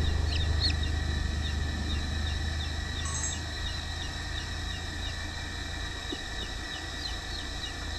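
Farmyard chicks peeping, a run of short, quick high chirps that thins out after the first second, over a steady low rumble.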